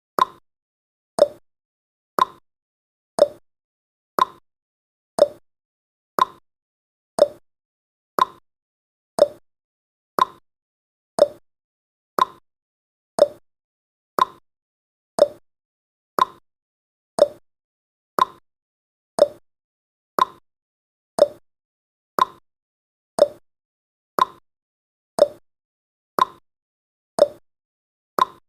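Countdown timer's clock-tick sound effect, one sharp tick each second, steady and even.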